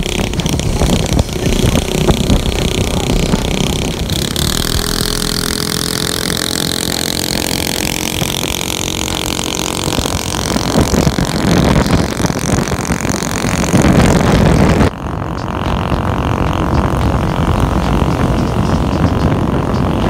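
A vehicle engine accelerating hard, its pitch climbing steadily for about ten seconds, then cut off abruptly and replaced by steadier engine and road noise.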